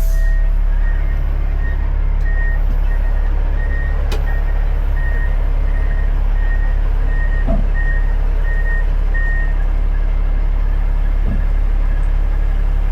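Dump truck's backup alarm beeping, about two beeps a second, over the low steady running of its CAT C-15 diesel engine; the beeping stops about nine seconds in.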